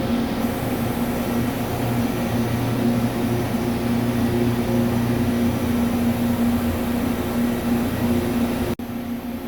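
Steady machine hum with a few constant tones, a CNC lathe running in a machine shop, cut off briefly near the end.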